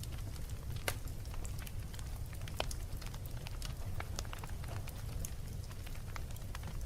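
Wood fire burning in a fireplace: steady low rumble of the flames with frequent irregular crackles and pops, a couple of sharper pops about a second in and after two and a half seconds.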